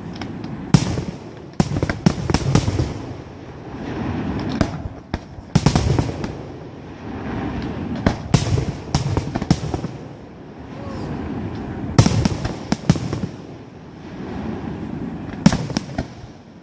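Fireworks display: a run of aerial shell bursts, several sharp bangs a few seconds apart with rumbling echo and crackle in between.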